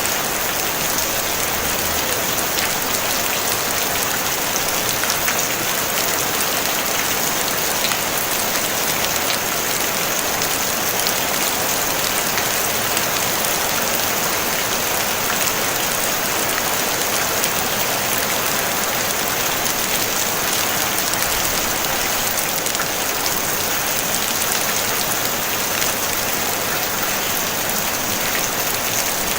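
Steady rain pattering on a tin roof, an even hiss of many drops with no thunder.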